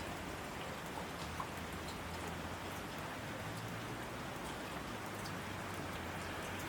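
Steady rain falling, with scattered drops ticking through the even hiss.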